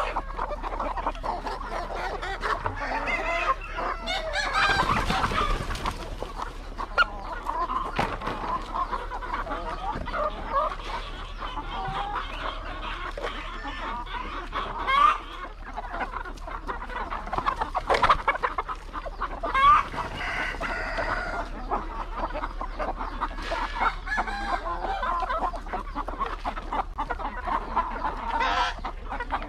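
A flock of hens clucking continuously, with a rooster crowing about four seconds in and a few louder calls later on.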